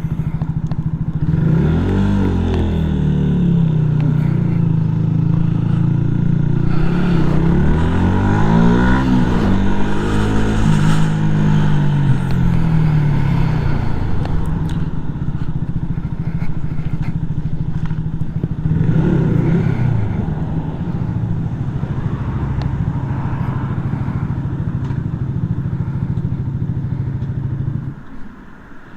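Yamaha MT-125's single-cylinder four-stroke engine running at low speed, its revs rising and falling a few times as the bike is ridden slowly, then dropping away about a second before the end.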